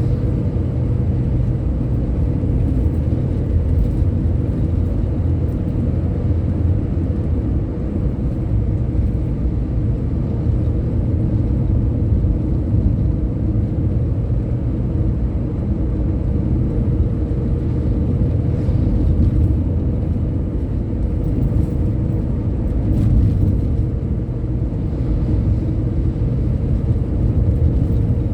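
A road vehicle on the move: a steady low engine and road rumble with a faint steady whine above it.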